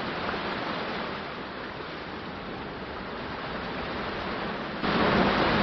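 Steady rushing water, a relaxing water-sounds background track; it grows louder about five seconds in.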